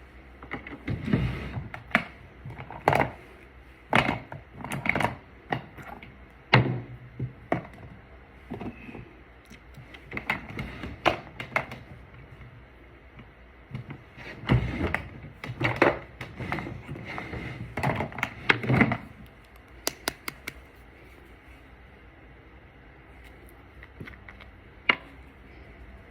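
Irregular clicks, taps and knocks of small cosmetic containers being picked up, opened and set down on a hard surface, busiest in the first three-quarters, then only a couple of single clicks.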